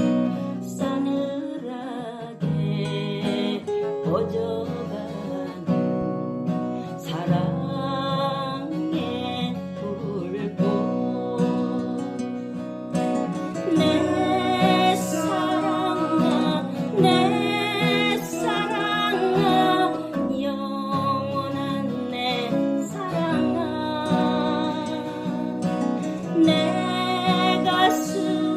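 A song played on acoustic guitar, with a voice singing the melody over the chords.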